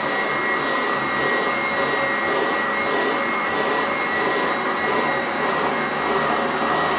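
Commercial Sanitaire Max-Vac upright vacuum cleaner running steadily while vacuuming carpeted stairs. A steady high whine sits over a strong rush of air drawn through the carpet.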